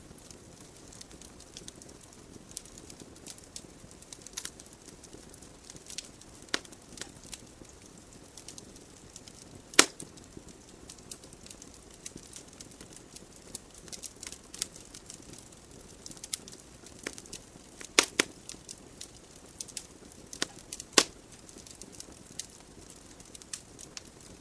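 Wood logs burning in a fireplace: irregular sharp crackles and pops over a soft, steady hiss of flame, with a few louder pops standing out, the loudest about ten seconds in and another pair around eighteen seconds.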